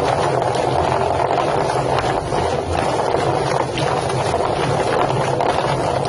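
Drum-type chicken plucking machine running: a steady electric-motor hum under a loud wash of water and rapid irregular slapping as the birds tumble in the spinning drum.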